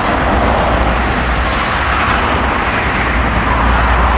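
Steady rush of wind and road noise from a moving motorcycle, with a heavy low rumble from wind buffeting the microphone.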